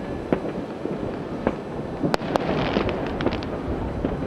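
Distant fireworks and firecrackers going off across a city: scattered sharp bangs, the loudest about two seconds in, followed by a quick run of crackling pops over a steady low rumble.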